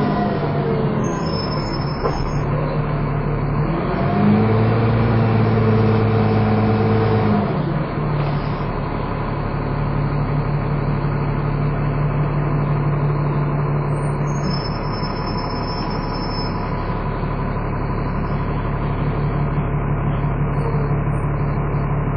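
Dennis Trident 2 double-decker bus engine heard from on board, driven hard. Its revs fall away at the start, a strong drone rises about four seconds in and drops off again about three seconds later, and then it pulls at steady revs, with the whining cooling-fan 'hoover' sound these buses are known for.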